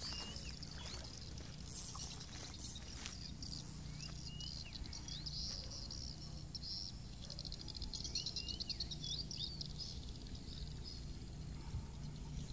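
A bird calling in short hooked chirps, two or three at a time every few seconds, over a high buzzing that swells and fades and a steady low rumble.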